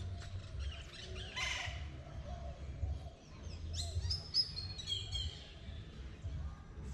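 Birds chirping: a quick run of high, falling notes about four seconds in, over a steady low rumble.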